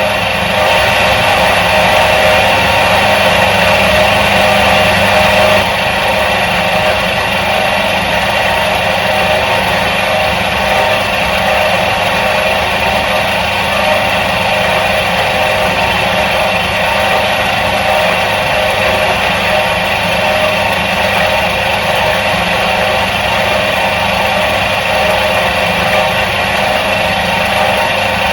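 Electric motor of a 1977 Soviet washing machine running steadily, an even mechanical hum with a slight drop in level about five seconds in.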